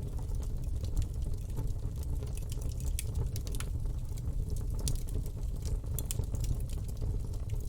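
Campfire burning: a steady low rumble of the flames with frequent irregular sharp crackles and pops from the wood.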